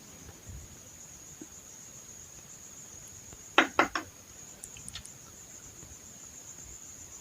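A steady high-pitched drone in the background, with three sharp clicks in quick succession about three and a half seconds in, followed by a few faint ticks, typical of small metal tools knocking during soldering work on a circuit board.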